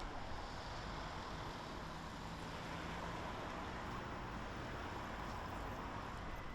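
Steady outdoor background noise, an even hiss and rumble with a faint low hum in the middle.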